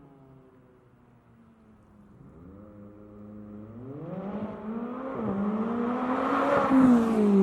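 McLaren 570S twin-turbo V8 running through a titanium aftermarket exhaust: quiet at first, then accelerating from about two seconds in, its pitch and loudness rising with a brief dip around five seconds in. It is loudest near the end, as the pitch falls away.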